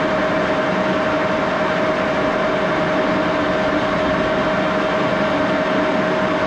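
Axelson engine lathe running steadily at high spindle speed, around 3,000 rpm, with a six-jaw chuck spinning. It makes an even mechanical rush with one steady high tone over it.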